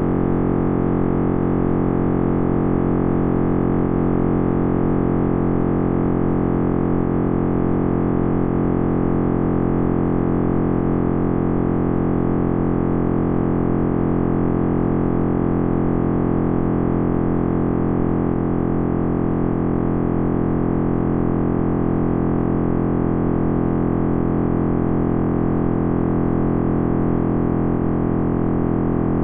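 Synthesized simulation of the Big Bang's sound: a steady, dense drone of many overlapping sustained tones over a deep, low hum, unchanging throughout.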